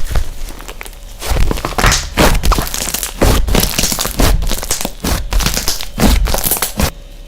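Slime being squeezed and poked by hand: a run of short, irregular squishing and crackling sounds that starts about a second in and stops abruptly near the end.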